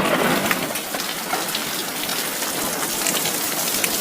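Heavy rain falling in a thunderstorm: a steady hiss with many small drop taps.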